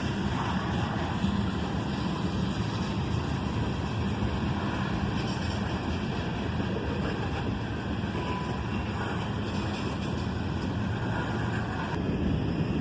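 Freight cars rolling past, making a steady noise of steel wheels on the rails.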